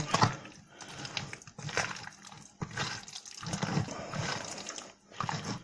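Hands squishing chunks of raw chicken through a wet spice marinade in a bowl: irregular squelching with small clicks.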